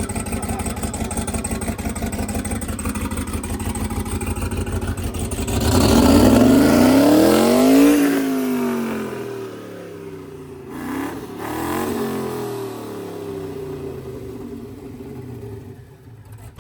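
Twin-turbo LS V8 of a swapped limousine running hard for a burnout attempt. About six seconds in it revs up sharply, then the revs fall away, with a smaller rev again about two-thirds of the way through.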